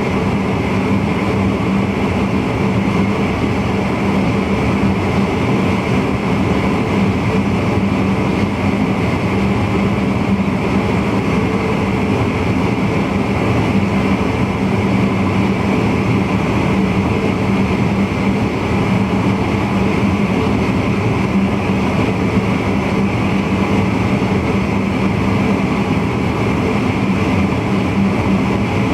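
VIRM double-deck electric intercity train running steadily along the line, heard from the driver's cab: a constant running noise with a steady hum underneath.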